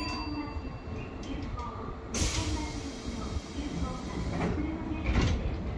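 Electric train standing at a platform, its equipment giving a steady low hum. About two seconds in comes a sudden loud hiss of compressed air from the train's air system, fading over a second or so. A couple of shorter knocks follow near the end.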